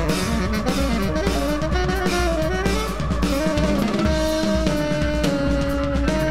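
Live jazz trio of saxophone, double bass and drum kit playing, with busy drumming throughout. The saxophone plays a moving line that settles into longer held notes about four seconds in, over the double bass.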